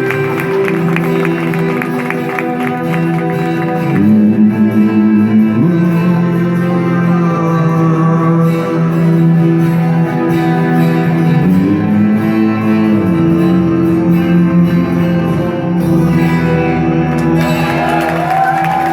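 Live band music in a club, with guitar and long held low notes that shift pitch a few times.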